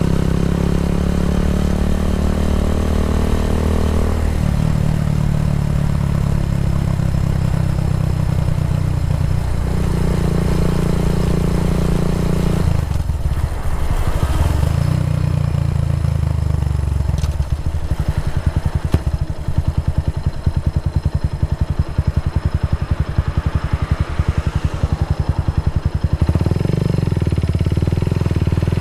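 Kawasaki W175 single-cylinder engine running through an aftermarket racing exhaust, its engine note changing several times. From about a third of the way in it settles into a lumpy, pulsing beat with each exhaust pulse distinct, then picks up again near the end.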